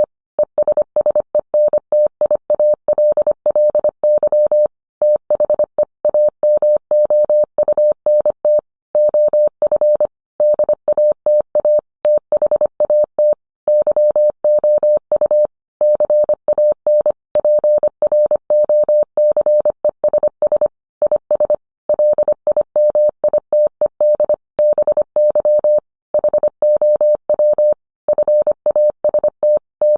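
Morse code: a single steady mid-pitched tone keyed on and off quickly in dots and dashes, with short pauses between words.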